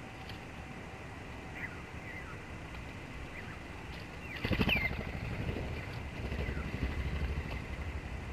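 Sparrows giving short, scattered chirps over a low rumble of passing traffic, which grows louder about halfway through.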